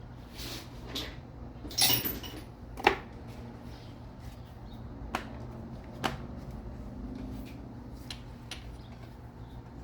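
Scattered clicks and clinks of small hard engine parts being handled as fuel injectors are worked out of a VG33E V6. A rattling clatter comes about two seconds in, then a sharp click about a second later and a few lighter clicks after, over a low steady hum.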